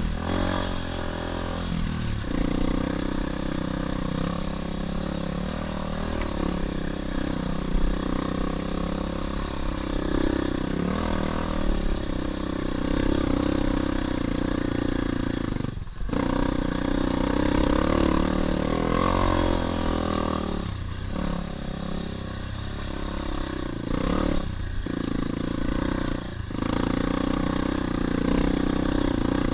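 Dirt bike engine running while riding, its revs rising and falling with the throttle. The engine sound drops out briefly several times in the second half.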